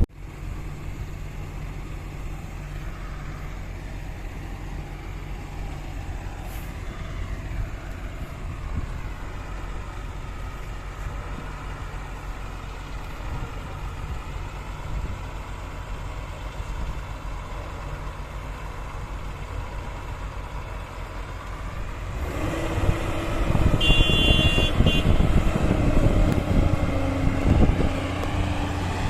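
Heavy diesel engines of earth-moving machinery running steadily; about three-quarters of the way through the engine note rises and grows louder, as under load or revving. A brief high-pitched tone sounds shortly after.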